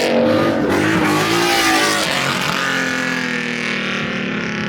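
A car doing a burnout or donut: its engine revving up and down over the hiss of spinning tires.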